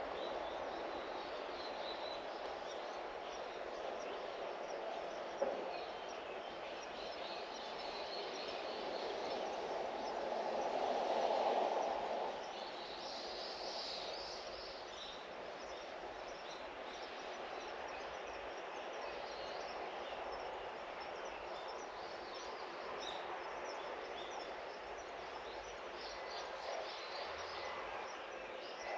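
Outdoor garden ambience: a steady distant noise that swells for a couple of seconds near the middle and then eases, with faint bird chirps.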